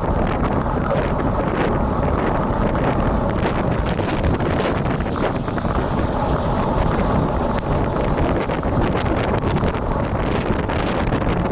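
Steady wind noise buffeting the built-in microphone of a Sony FDR-X3000 action camera on a road bike, in strong typhoon wind.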